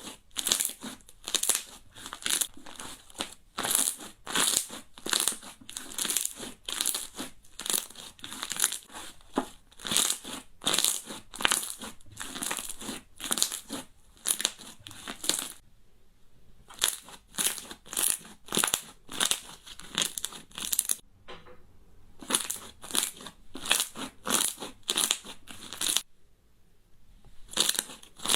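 Slime being squeezed and pressed close to the microphone, giving dense crunchy crackles and pops several times a second, with a few short pauses.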